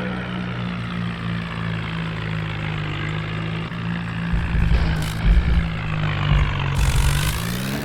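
Tractor engine running steadily, with uneven low rumbling thumps joining in after about four seconds; near the end the engine revs up.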